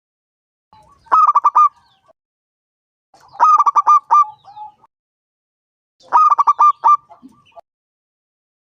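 Zebra dove (perkutut) cooing: three phrases about two and a half seconds apart, each a quick run of short staccato coos.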